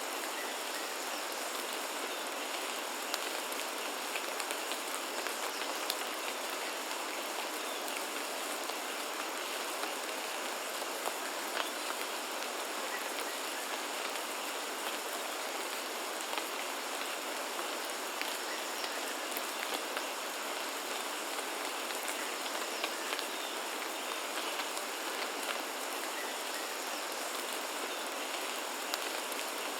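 Steady rain falling, a constant hiss with scattered sharper drop ticks.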